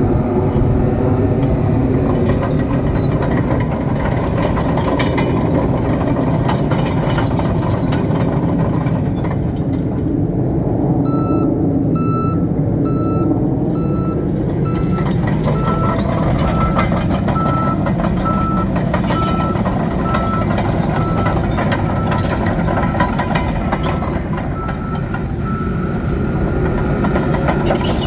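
John Deere 750K LGP crawler dozer's diesel engine running with scattered clanks. About eleven seconds in, its reverse alarm starts beeping, a little over one beep a second, and it stops near the end.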